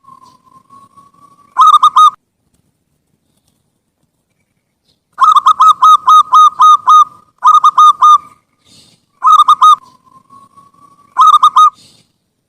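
Zebra dove (perkutut) song: soft drawn-out notes alternating with five loud phrases of rapid staccato coos. The longest phrase is about two seconds in the middle, with short pauses between phrases.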